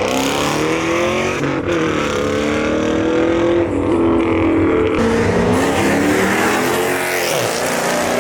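Car engine revving hard and repeatedly, its pitch climbing and falling back several times.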